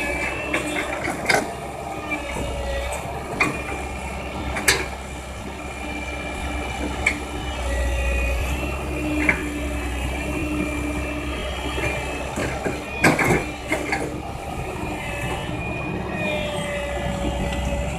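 Komatsu excavator working under a steady engine drone, with high metallic squeals that come and go. A few sharp knocks stand out, several together about two-thirds of the way through, as the bucket handles crushed rock.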